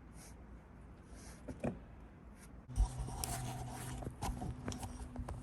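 Scattered clicks and knocks of tools and gear being handled. After a thump about halfway through, a low steady hum sets in under more sharp clicks.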